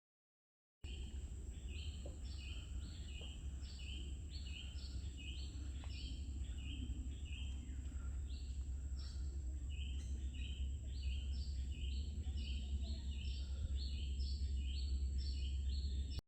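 A bird calling a long run of short, repeated chirps, about three a second, over a steady low rumble and a thin steady high-pitched tone; the sound starts abruptly about a second in.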